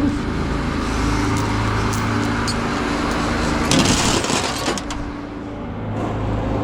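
Truck engine running with road noise while driving, a steady low hum. A brief louder rush of noise comes about four seconds in.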